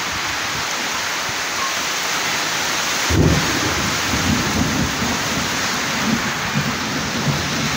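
Heavy rain falling steadily, with a low, uneven rumble coming in about three seconds in.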